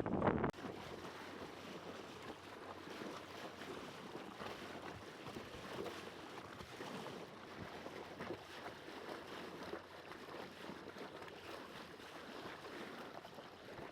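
Steady outdoor noise of wind and water on a waterway, even and without distinct events, after a louder noise that cuts off about half a second in.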